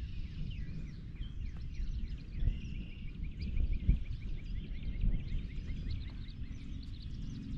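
Many small birds chirping and singing together over a steady low rumble.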